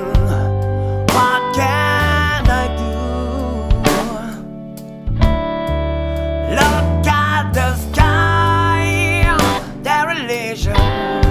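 Band music with electric guitar, bass and drums, a wavering melody line over a steady bass and regular drum hits.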